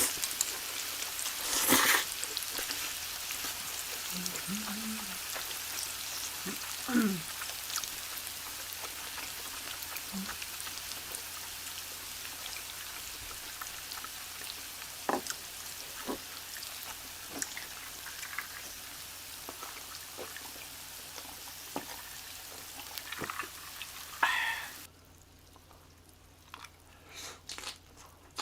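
Food sizzling steadily on a hot pan, with a few sharp utensil clicks; the sizzle cuts off suddenly near the end, leaving only faint ticks.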